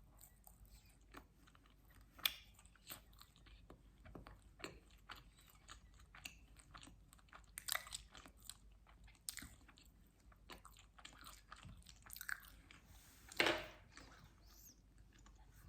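Close-miked chewing of pizza, with many small wet mouth clicks and smacks. There is one sharp louder smack about two seconds in and a longer, louder bite or smack near the end.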